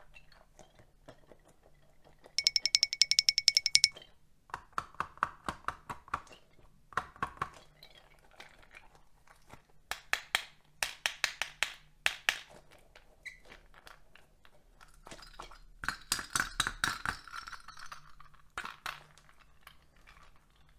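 Small hard objects clicking and clinking. It starts with a fast run of ticks carrying a ringing tone, then goes on as scattered clusters of sharp clacks, and near the end there is a noisier scraping crunch.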